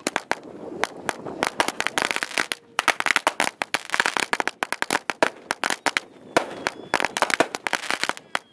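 A long string of firecrackers going off, a rapid, irregular rattle of sharp bangs with short lulls between the thicker bursts.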